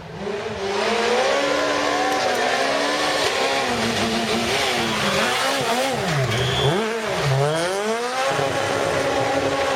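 Rally car engine at full effort, its note climbing and dropping again several times as it accelerates and lifts off, with two brief high squeals past the middle.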